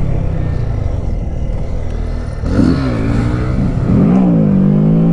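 A 125 cc single-cylinder mini bike engine idling, then revving up about halfway through. Its pitch climbs, dips briefly and climbs again, holding high near the end.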